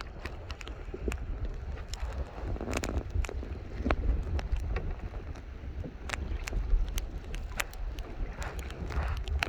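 Wind rumbling on the microphone, with irregular sharp clicks and knocks scattered over it.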